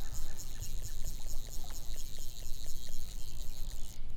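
Stream water trickling and splashing, with a high, pulsing insect chorus that cuts off near the end.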